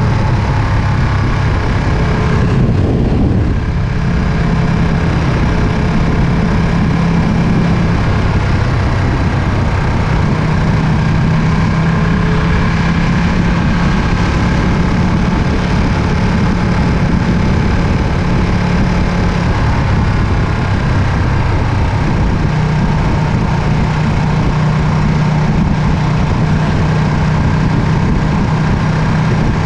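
Ducati Panigale V2's L-twin engine running steadily at a low, fairly even pitch, with a brief dip in the sound about three seconds in.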